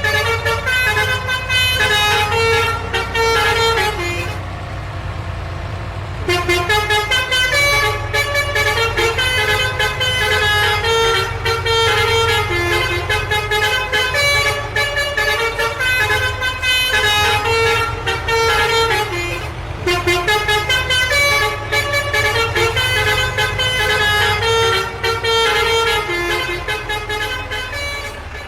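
Cartoon vehicle sound effects: a steady low engine hum under a quick run of pitched, horn-like toots. The toots drop out briefly about four seconds in.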